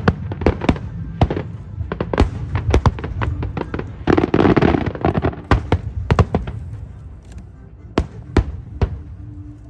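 Fireworks display: a rapid run of sharp bangs from bursting aerial shells, with a thick burst of crackling about four seconds in, the bangs thinning out near the end.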